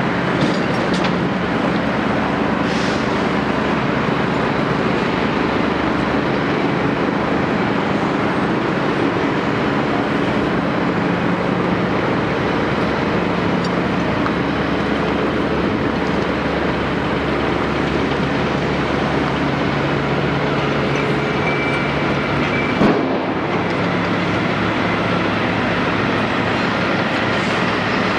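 Caterpillar 329E excavator's diesel engine running steadily at work, with a single sharp knock about three-quarters of the way through.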